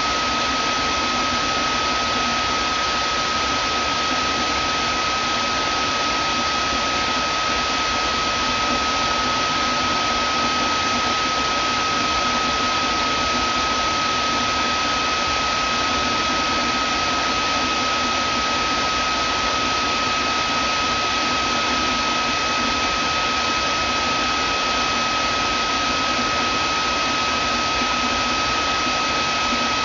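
Vacuum cleaner running steadily: an even rush of air with a constant high whine from the motor, unchanging throughout.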